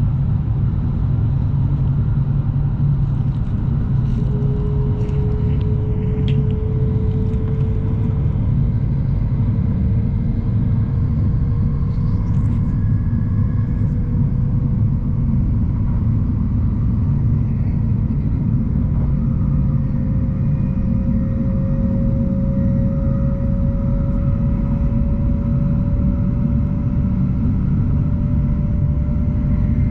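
Shinkansen bullet train running, heard on board: a steady low rumble with a faint whine that slowly rises in pitch.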